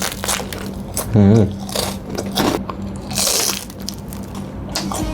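Close-mic biting and chewing of dew-dried rice paper rolled with crispy fried shallots and pork cracklings, with irregular crunches, the loudest a little past the middle.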